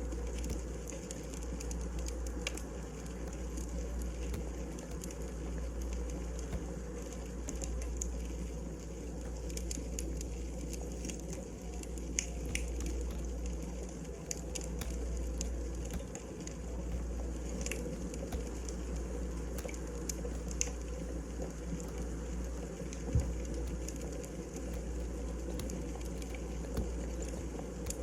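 Wood burning in a fireplace: a steady low rush with scattered crackles and pops throughout.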